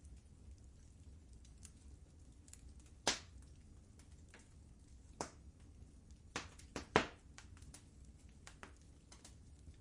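Wood fire burning in a fireplace, crackling with a steady low rumble and scattered sharp pops, the loudest about three seconds in and about seven seconds in.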